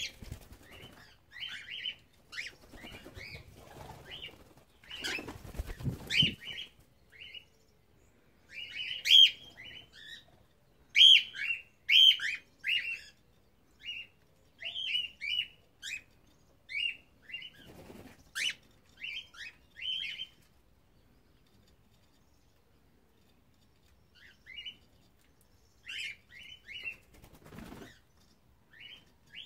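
Cockatiels giving short, repeated chirping calls, with a few bursts of wing flapping among them. The calls stop for a few seconds about two-thirds of the way through, then start again.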